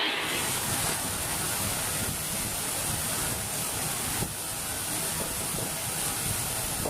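Water rushing steadily through the opened spillway gates of a reservoir dam after heavy rain. There is a slight dip in level about four seconds in.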